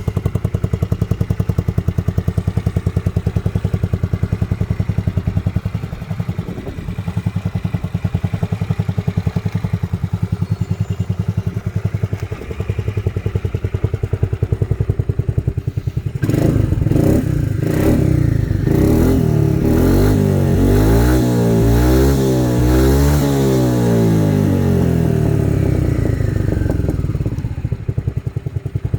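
Yamaha Majesty C (SG03J) scooter's single-cylinder four-stroke engine breathing through a Supertrapp aftermarket muffler, idling steadily. About halfway through it is revved repeatedly, the pitch rising and falling several times in quick blips, then it drops back to idle near the end.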